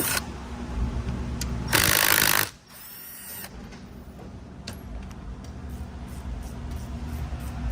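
A hand-held power tool runs in one short burst about two seconds in, spinning out one of the 8 mm bolts from a transmission valve body, over a steady low hum.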